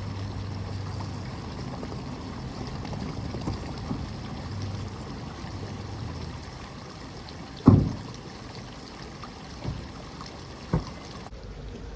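Spring water running steadily. A single loud thump comes about eight seconds in, with two lighter knocks a few seconds later.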